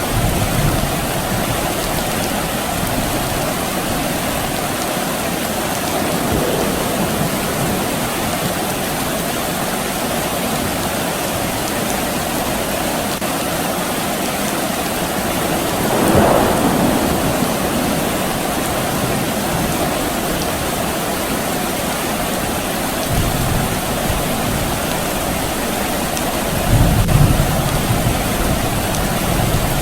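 Steady rain falling, with low rumbles of distant thunder now and then, the strongest near the end, and a brief louder swell about halfway through.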